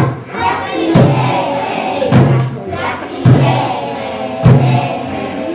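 A group of children singing a song in unison over a steady drum beat, about one beat a second.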